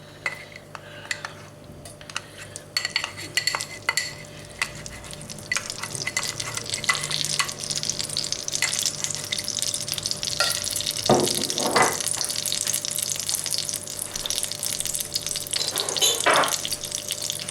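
Butter and cooking oil heating in a wok, starting to sizzle as the butter melts, the sizzle growing louder over the first few seconds and then holding steady. A few louder scrapes of a utensil in the pan come partway through and near the end.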